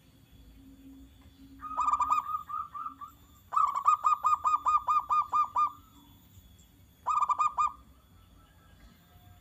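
Zebra dove (perkutut) calling in three runs of quick staccato coo notes, about six notes a second. The longest run lasts about two seconds, in the middle, and a short run comes near the end.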